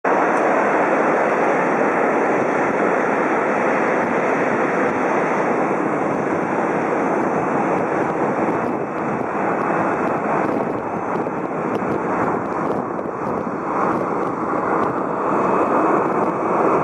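Boeing 777-300ER's GE90-115B jet engines on landing, a loud steady rush that eases slightly midway and swells again near the end.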